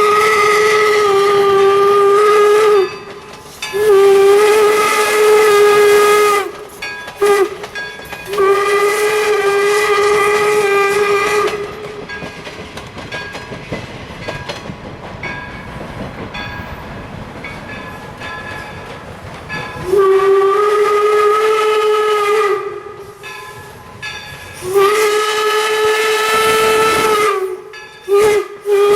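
Steam whistle of the 4-4-0 locomotive "York" sounding steady single-pitched blasts in the long-long-short-long grade-crossing pattern, then, after several seconds of the train running with steam hiss, two more long blasts and the start of another sequence near the end.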